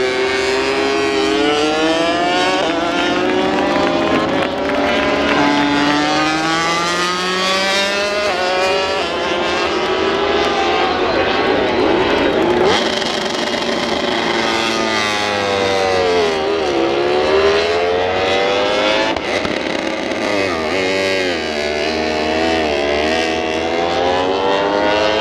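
Grand Prix racing motorcycles at full race speed, several at once, their engines revving up and down through the gears without a break. About two-thirds of the way through, one bike's pitch drops sharply and climbs again.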